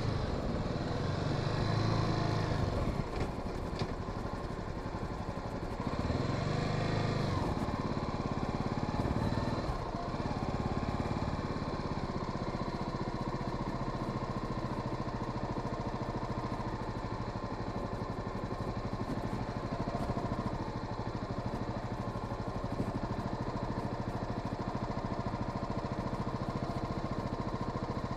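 Honda Sahara 300 single-cylinder motorcycle engine, heard from the rider's position. It revs up and back down twice in the first ten seconds, then runs steadily at an even pitch.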